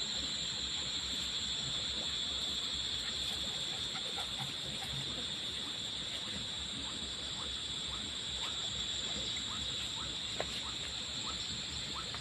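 Rice-field ambience: a steady high-pitched insect drone, with short rising chirps repeating from about four seconds in.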